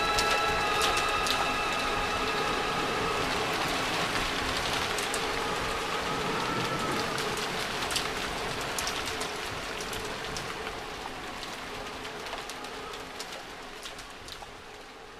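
Rain falling with scattered sharp drop clicks, fading out slowly as the track's last held notes die away beneath it.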